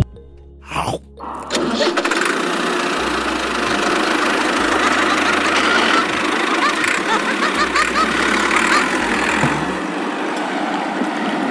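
A tractor engine starts about a second and a half in and then runs steadily.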